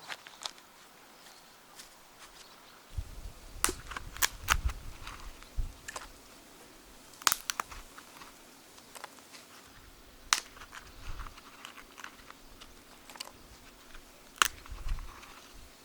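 Objects being handled and set down: scattered sharp clicks and knocks, about six clear ones, with a few soft low thumps.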